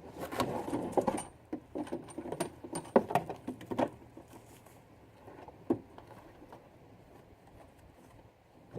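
Cardboard box and packaging being opened and handled: a busy run of rustles, taps and knocks for about four seconds, then quieter, with one more knock near the middle.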